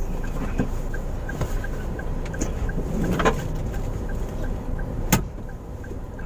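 Car cabin with the engine idling at a standstill: a steady low rumble under a quick, even ticking, and a few sharp clicks, the loudest about five seconds in.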